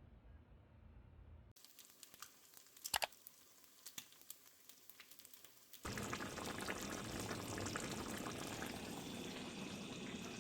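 Kitchen sounds: a few light clicks and one sharper knock, then from about six seconds in a steady hiss of cooking or running liquid that carries on.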